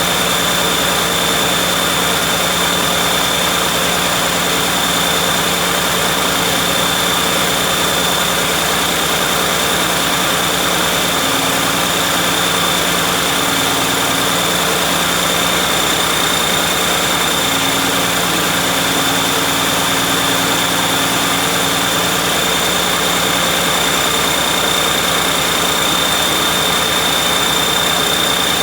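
John Deere 6068TF 6.8-litre six-cylinder turbocharged diesel engine running steadily at idle, with a steady high whine over the engine note.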